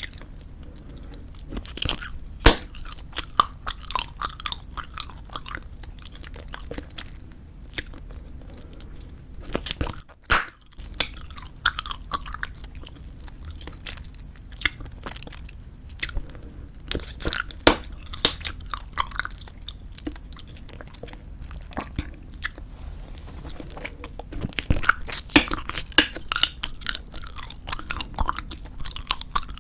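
Close-up chewing of squeeze-tube bubblegum: a steady run of sharp, wet mouth clicks and snaps, coming thicker near the end.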